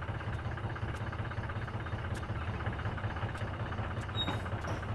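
Tractor engine running steadily with an even low throb.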